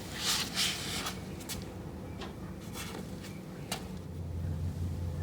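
Scattered light clicks and knocks from handling metal parts and tools, several in the first second and a few more spread over the next three. About four seconds in, a steady low hum starts.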